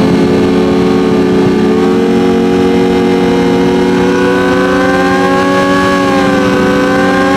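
Drag-racing motorcycle engine held at steady high revs, one pitch with only a slight rise midway, as it holds launch revs before leaving the line.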